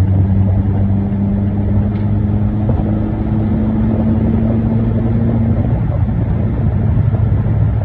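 Car engine and road noise while driving: a steady low hum whose pitch shifts slightly a couple of times.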